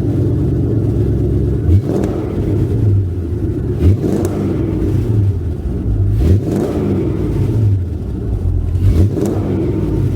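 Chevrolet Corvette C5's V8 exhaust idling, with four quick throttle blips that rev up and fall back, about two to three seconds apart.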